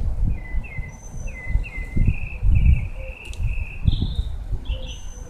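Small bird chirping in a quick run of short repeated notes, with a few higher notes about four seconds in, over gusts of wind buffeting the microphone.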